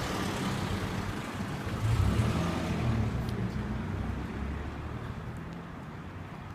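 Cars passing on a street: engine hum and tyre noise, loudest about two seconds in, then fading as the traffic moves off.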